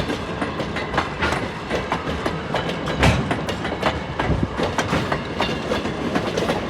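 Heritage railroad passenger coach rolling along the track, heard from aboard: a steady rumble with frequent sharp clicks and knocks from the wheels on the rails.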